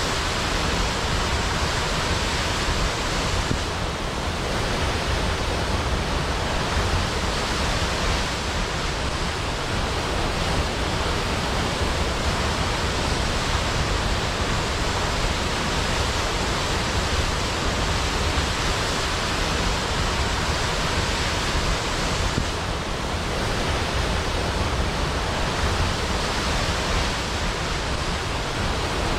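Large waterfall plunging into a pool: a steady, dense rush of falling water, unbroken throughout.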